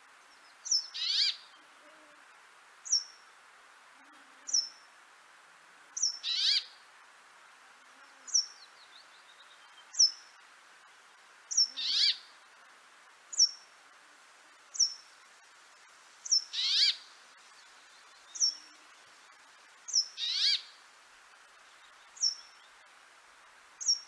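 Small songbirds calling: a short, high, falling note repeats about every one and a half seconds, and a longer, harsher falling call comes in every four to five seconds.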